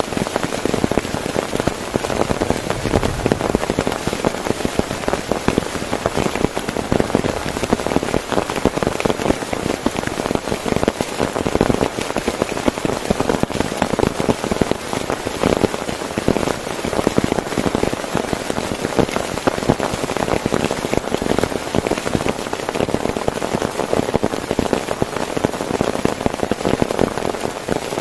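Heavy rain falling steadily on a tent, a dense, even patter of countless drops.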